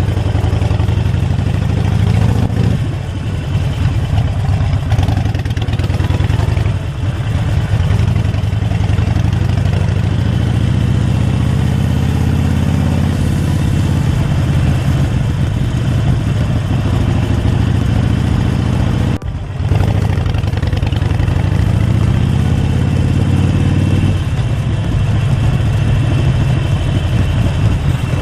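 Harley-Davidson Forty-Eight Sportster's air-cooled V-twin running on the road, the revs climbing in a couple of long pulls, with a short break in the sound about two-thirds of the way in.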